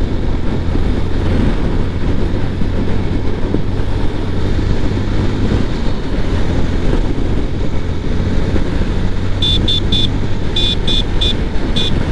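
Wind noise on the microphone inside an Axor Apex Vivid full-face helmet, visor closed and chin pad fitted, as the motorcycle speeds up towards 80 km/h: a steady low rush. Near the end a horn beeps in about eight short high toots.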